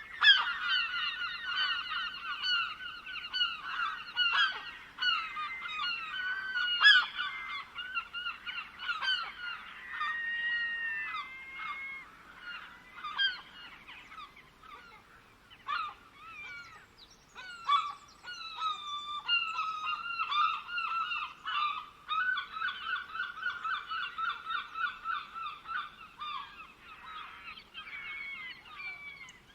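Birds calling in rapid runs of short repeated notes, several voices overlapping. The calls thin out about halfway through, then pick up again.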